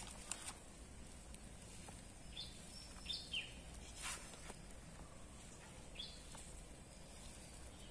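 Faint outdoor background with a bird giving a few short, downward-sliding chirps, about two and a half, three and six seconds in, and a couple of faint taps.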